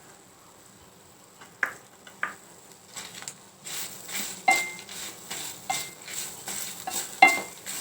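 A metal spoon stirring and scraping whole spices (coriander seeds, fenugreek, pepper, dried red chillies) as they dry-roast in a pan with a little coconut oil, with a light sizzle. There are a few sharp metal clinks against the pan. The stirring starts after a quiet second and a half and keeps up steadily.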